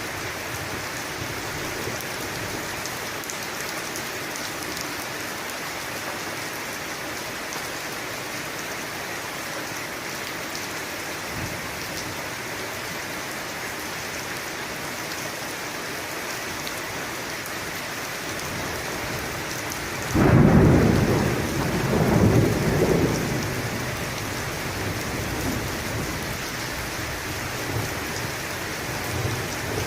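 Steady rain falling, with a sudden clap of thunder about two-thirds of the way through that rumbles on for a few seconds before fading back under the rain.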